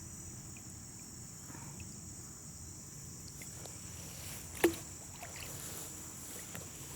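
Steady high-pitched chorus of insects, with quiet kayak paddling on calm water and one sharp knock about four and a half seconds in.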